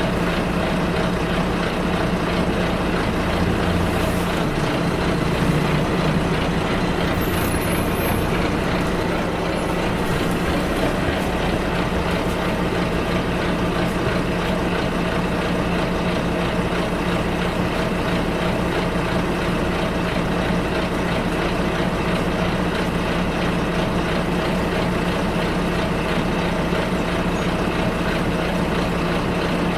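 Steady engine hum and rumble of a bus on the move, heard from inside, at an even level, with a brief high-pitched squeak about seven seconds in.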